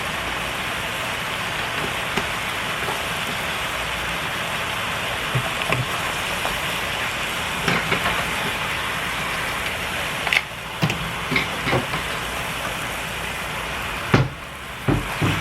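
Steady hiss of food cooking on a hot stovetop, with a few sharp knocks and clicks scattered through it.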